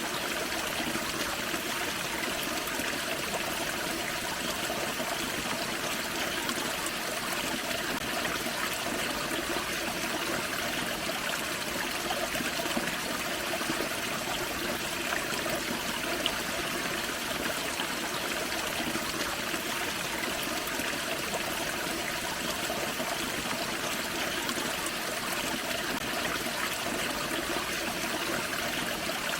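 Forest creek running over a small waterfall: a steady rush and trickle of water.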